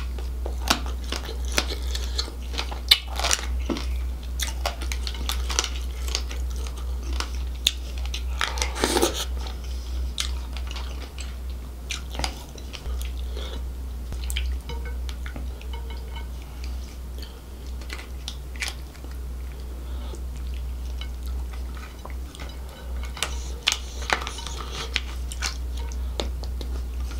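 Close-miked eating of crab and lobster in thick gravy: chewing, biting and sharp crackles from shell pieces being cracked and sucked, with a longer wet slurp about nine seconds in. A steady low hum runs underneath.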